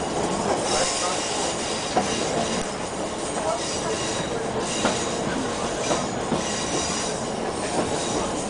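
A ScotRail Class 156 diesel multiple unit running along the track, heard from inside the carriage. Wheels on rail make a steady rumble, with irregular sharp clicks and a faint high wheel squeal.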